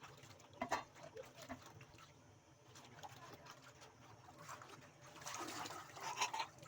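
Faint splashing and trickling of water, with a couple of sharp clicks about a second in and louder splashes near the end.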